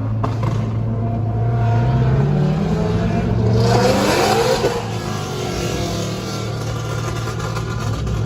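Modified car engine accelerating hard, its pitch climbing over about two seconds, then a loud rush as it passes around four seconds in, settling back to a steady engine drone.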